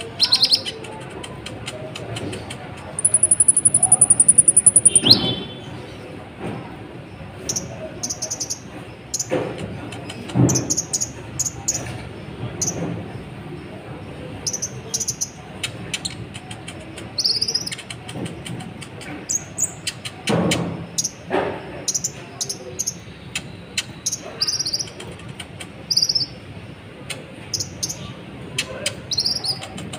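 Kolibri ninja sunbird calling: a loud, high, thin trill about three seconds in, then short sharp high chirps repeated every second or so. A few dull low thumps are heard among them.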